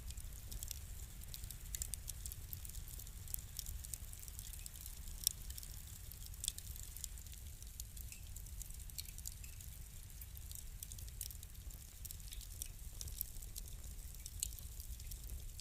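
Wood fire crackling: irregular small pops and snaps over a low steady rumble, with one sharper pop about five seconds in.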